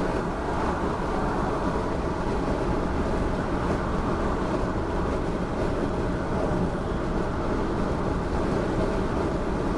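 Steady road, wind and drivetrain noise heard from inside the cabin of a 1996 Chevrolet Caprice 9C1 police interceptor cruising at highway speed.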